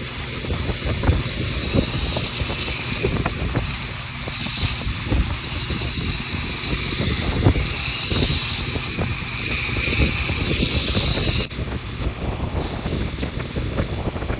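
Grizzly 2x42 knife-maker belt grinder running, with a steel blade pressed against the 100-grit belt, a steady grinding hiss. Near the end the hiss cuts off suddenly as the blade comes off the belt, and the grinder's motor and belt keep running.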